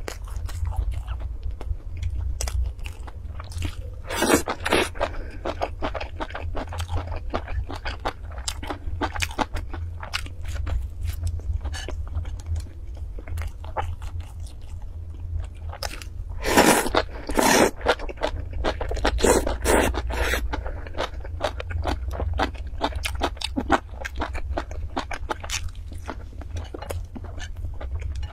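Close-miked chewing and crunching of food, with many small wet mouth clicks, as bites of seaweed salad and a soft white food are eaten. The loudest crunchy bites come about four seconds in and twice around seventeen seconds in, over a low steady hum.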